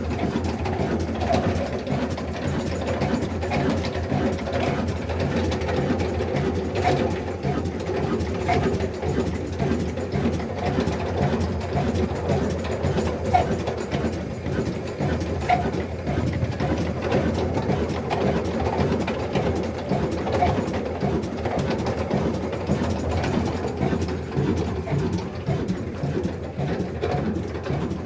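Old black desi diesel engine running steadily with a fast, even mechanical beat.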